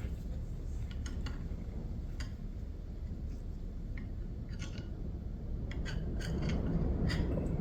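Scattered light metallic clicks and clinks of hand tools and small parts being handled during work on an outboard lower unit, more of them in the second half, over a steady low rumble.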